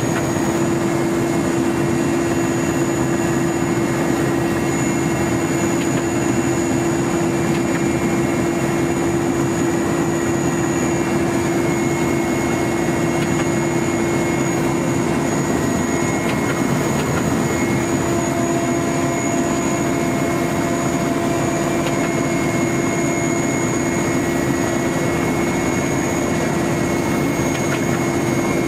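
Steady helicopter engine and rotor drone, with constant whines on top that hold the same pitch throughout.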